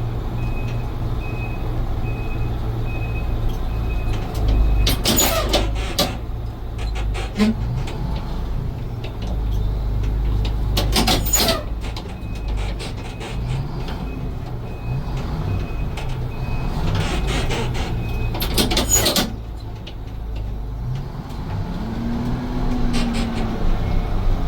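Fire truck's Detroit diesel engine running steadily while its reversing alarm beeps about once a second; the beeping stops about four seconds in. Three loud hisses of air follow, about five, eleven and eighteen seconds in, from the truck's air brakes.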